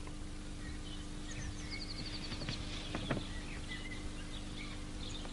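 Background birdsong: scattered short chirps with a quick high trill about two seconds in, over a steady low hum.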